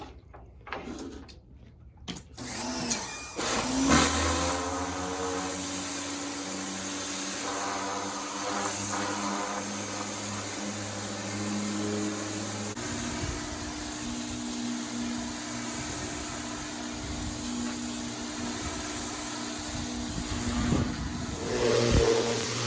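Pressure washer starting up about four seconds in, then running steadily, with a change in its tone about halfway through.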